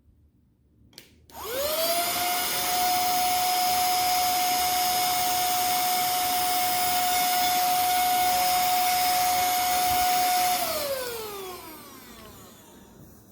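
Portable handheld vacuum cleaner switched on with a click, its motor spinning up to a steady whine as it sucks up baking soda, then switched off and winding down with a falling pitch about three seconds before the end.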